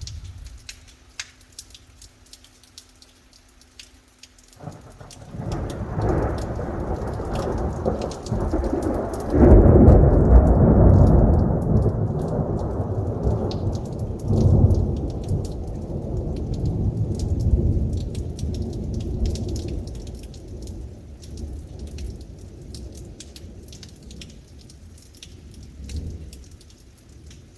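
A long peal of thunder breaks in suddenly about four seconds in, swells to a deep rumble, rolls on in several surges, and slowly fades away. Light rain patters throughout.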